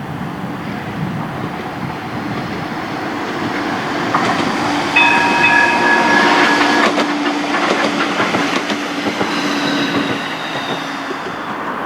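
A tram running past, its wheels clicking over rail joints and the running noise swelling and fading. A high ringing tone is held for about two seconds near the middle.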